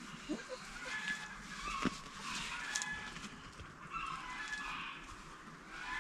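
Chickens calling: scattered short, high chirps and clucks, with a single sharp click about two seconds in.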